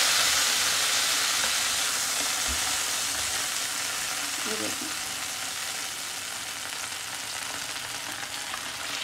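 Chicken breast sizzling in a hot ridged grill pan just after a splash of vinegar mixed with soy sauce hits it. The hiss is loudest at the start and slowly dies down as the liquid cooks off.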